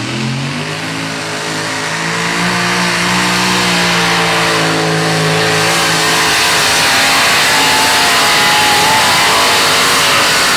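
Modified pulling tractor's engine at full throttle during a pull, growing louder over the first few seconds and then holding a loud, rough drone.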